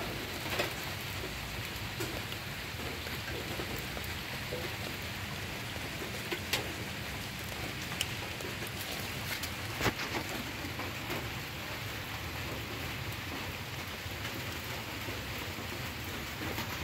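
Steady rain, with a few sharp ticks of drops landing close by.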